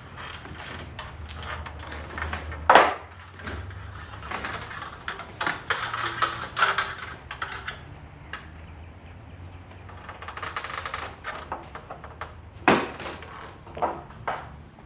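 Irregular clicking, tapping and clattering of tools and metal hardware being handled during assembly, with two sharp louder knocks, one about three seconds in and one near the end. A faint low hum runs underneath.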